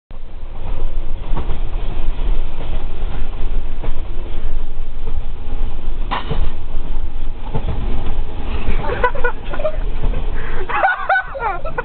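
Moving train running with a steady low rumble, with people's voices breaking in about nine seconds in.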